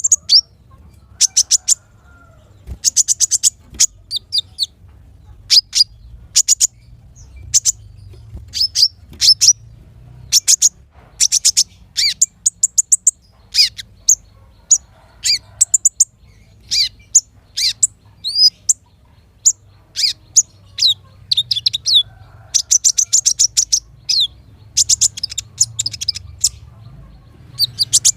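Small songbirds chirping and trilling in quick runs of sharp, high notes with short pauses between phrases. This is a recording of small-bird song used to train cage songbirds to copy it.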